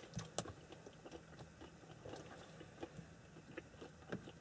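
Faint crunching and chewing of someone eating an apple, with small scattered clicks.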